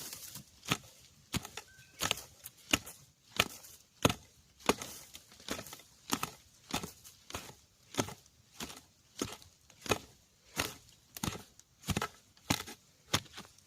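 Repeated chopping strikes of a digging blade or hoe cutting into earth and roots around a bamboo shoot, a sharp blow about every two-thirds of a second in a steady rhythm, some harder than others.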